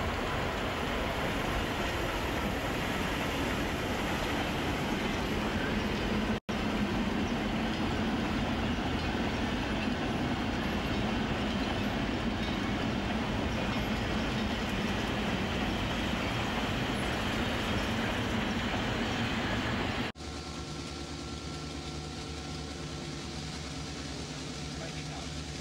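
Diesel-hauled freight train of tank wagons rolling past, a steady loud rumble with a low drone from the locomotive and wagons on the rails, broken by a sudden cut about six seconds in. About twenty seconds in it switches abruptly to a quieter, steadier hum with several held tones, a locomotive heard from its cab while running.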